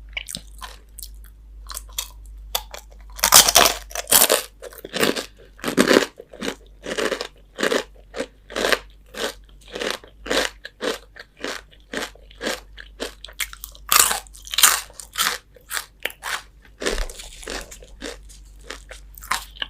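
Crispy fried chicken skin being bitten and chewed close to the microphone: a steady run of sharp crunches, a couple a second, with the loudest bites a few seconds in and again about two-thirds of the way through.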